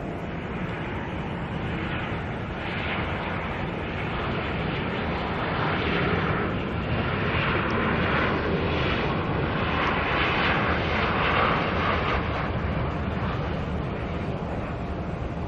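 Airliner engines passing by, swelling to a peak about two-thirds of the way through, then easing off.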